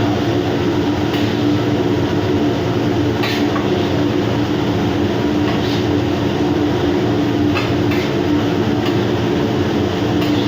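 Steady machinery rumble with a constant droning hum, the engine and ventilation noise of a ship's galley, with a few light clicks scattered through it.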